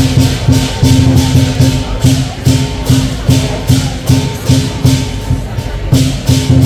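Chinese lion dance percussion: a drum pounding with clashing cymbals in a fast, steady rhythm of about three strokes a second.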